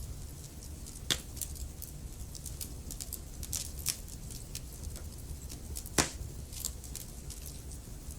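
Wood fire crackling in a fireplace: a steady stream of small snaps and ticks over a low rumble of the flames, with two louder pops about a second in and about six seconds in.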